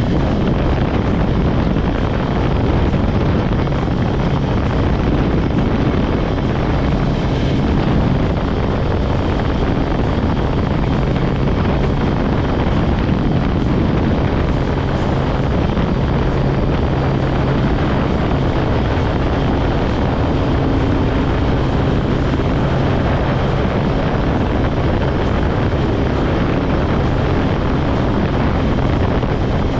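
Kawasaki ZX-10R's inline-four engine running at fairly steady cruising revs while riding, with wind noise on the microphone.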